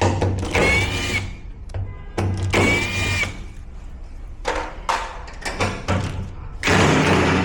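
Cordless drill-driver run in three short bursts of about a second each, its motor whining steadily, as screws are driven out of the washer's casing.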